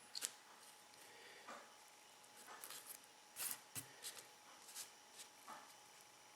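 Faint, scattered rustles and soft crackles of a dry tobacco wrapper leaf being handled and rolled by hand around a cigar, the loudest a little past halfway.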